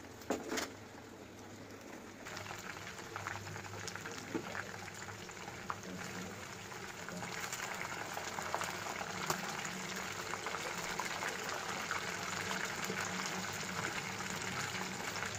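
Chicken legs sizzling and crackling in hot oil in a frying pan, growing louder over the first half and then staying steady. A couple of sharp knocks come at the very start.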